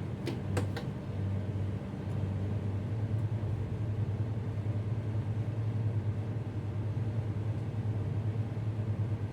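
Tugboat's diesel engines running with a steady low drone. A couple of sharp clicks come just after the start.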